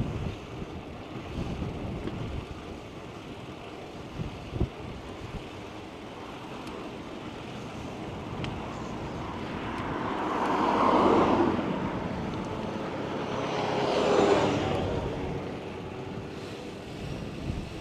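Two cars pass close by, one after the other about three seconds apart, each swelling up and fading away.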